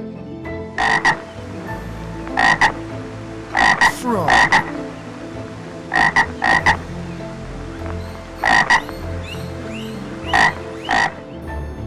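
A frog croaking: short croaks in pairs, repeated every couple of seconds.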